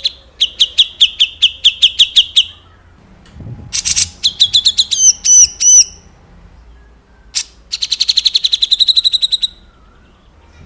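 Songbird singing rough, rapid-fire 'tembak kasar' phrases. There are two fast runs of sharp repeated notes, about six a second, with a burst of higher looping notes between them.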